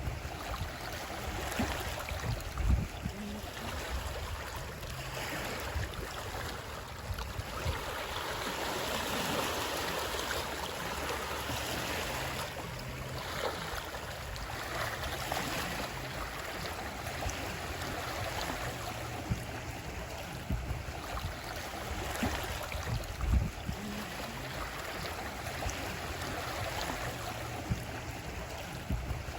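Running water: a steady rush that swells and eases. A low thump comes about three seconds in and another around twenty-three seconds in.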